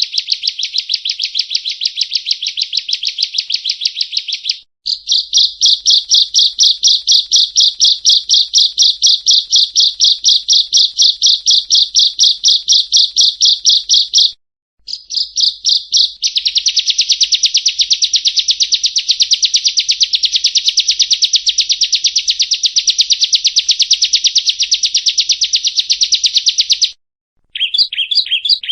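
Bar-winged prinia (ciblek) singing in long, rapid runs of repeated high chirps, about four notes a second. It breaks off briefly three times and starts again.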